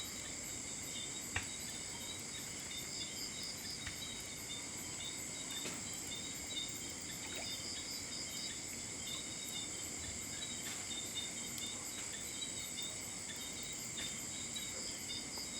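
A chorus of crickets and other night insects trilling steadily in several high-pitched, fast-pulsing layers, with a couple of faint clicks.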